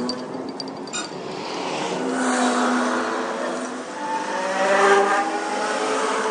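A motor running, its pitch sliding up and down and louder near the end, with a sharp click about a second in.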